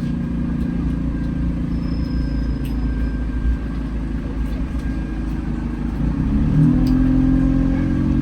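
Alexander Dennis Enviro200 bus's diesel engine heard from inside the bus, running steadily, then rising in pitch and getting louder about six seconds in as it accelerates.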